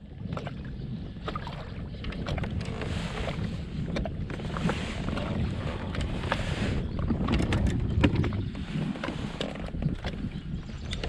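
Wind buffeting the microphone in a steady low rumble, with water lapping and slapping against a kayak's hull and many small clicks and knocks.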